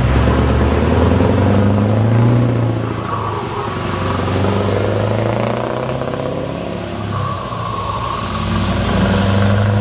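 Scania V8 truck engine with an open, straight-piped exhaust running loud and deep. It is strongest in the first three seconds, eases off through the middle, and swells again near the end.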